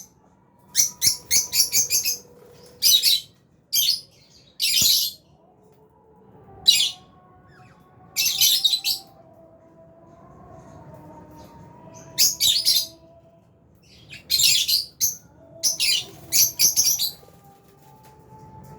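Lovebirds chirping in quick clusters of shrill, high calls, several in a row, with short pauses between clusters.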